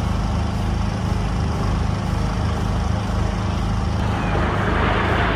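Aircraft engines droning in a low, steady rumble, with a rushing noise building from about four seconds in as the aircraft comes closer.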